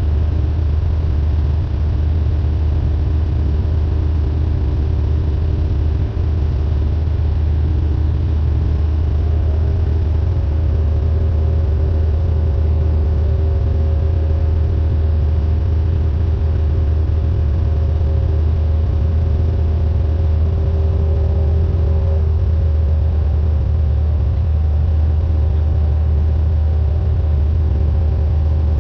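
Steady drone of a Cessna 172N's four-cylinder Lycoming engine and propeller in flight, a strong low hum with steady higher tones above it.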